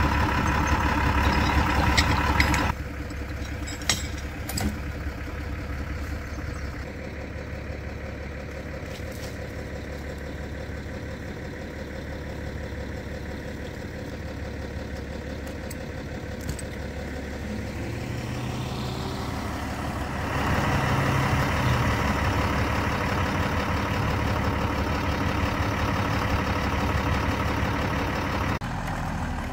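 A vehicle engine running steadily, dropping in level about three seconds in and getting louder again about two-thirds of the way through.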